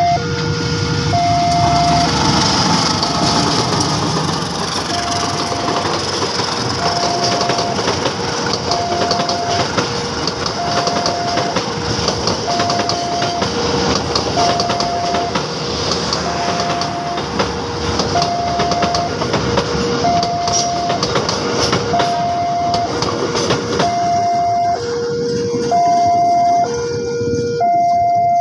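Tegal Ekspres passenger train running past with a steady rumble and clatter of wheels, over a level-crossing warning alarm sounding an alternating high and low tone about once a second. The train noise eases about 24 seconds in, leaving the alarm clearer.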